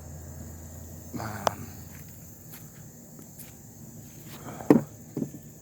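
Footsteps and a few short knocks and scuffs of tools being handled, the loudest near the end, over a steady chirring of crickets.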